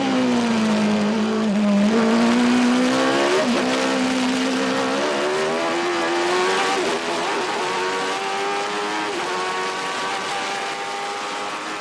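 A 1991 Formula One car's engine running. Its pitch falls over the first two seconds and stays low, then climbs again in steps before levelling off, as when a car slows for a corner and accelerates away.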